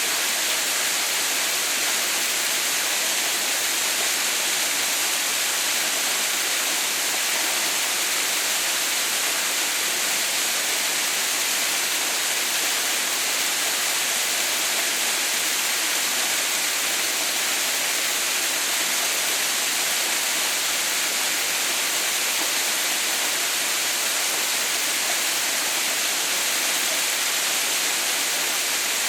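Water falling down the partly frozen Haha no Shirataki waterfall: a steady, even rushing with most of its sound in the high range, unchanging throughout.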